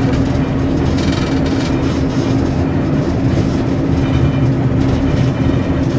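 Class 141 Pacer diesel railbus running along the line, heard from inside the driver's cab: a steady engine drone over continuous wheel-and-rail rumble.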